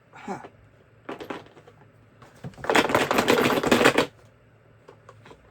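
Rapid clattering of a screwdriver set's plastic and metal parts, a dense run of clicks lasting over a second after a few lighter clicks; a wobbly part is rattling loosely in its holder.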